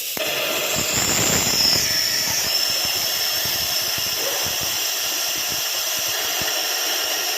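Tata Nexon turbo-petrol engine running with a loud, steady hissing rush that starts abruptly. A high thin whistle steps down in pitch between about one and two and a half seconds in.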